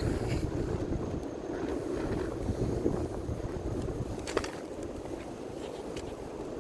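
Large bonfire burning with a steady low roar and scattered crackles, one sharper pop about four seconds in.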